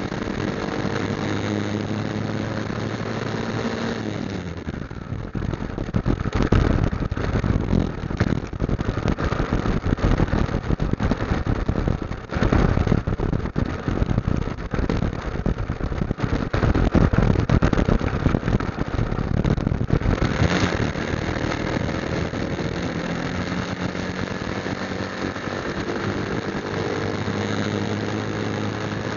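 Motorcycle engine idling with a steady hum. About four seconds in it gives way to a loud, rough rushing and buffeting noise while riding, which settles back to a steady idle about twenty seconds in.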